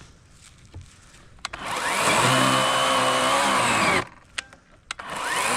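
Worx WG384 40-volt electric chainsaw with an 18-inch Oregon bar, running in two bursts in a large log. The motor whines up to speed about one and a half seconds in, holds for about two seconds and stops suddenly, then winds up again near the end.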